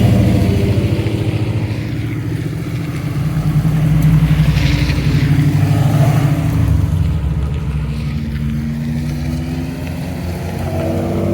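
Car engines running and accelerating, a deep rumble that swells about four seconds in and again around six seconds, then eases off.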